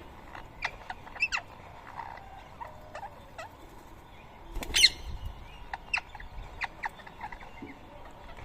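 Birds calling at a feeding spot: a scatter of short, sharp chirps and calls, with one louder shrill call about halfway through.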